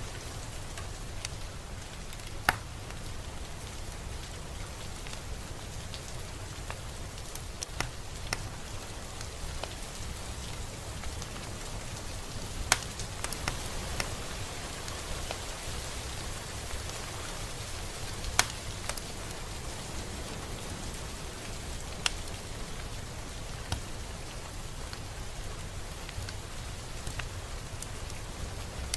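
Steady rain falling, with a scattering of louder single drops striking close by every few seconds.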